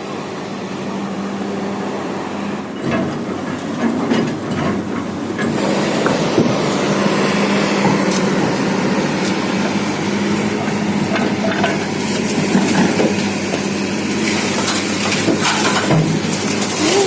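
Heavy diesel machinery running with a steady hum, as a large excavator loads sand and gravel into a dump truck, with scattered knocks and clatter. It grows louder about six seconds in.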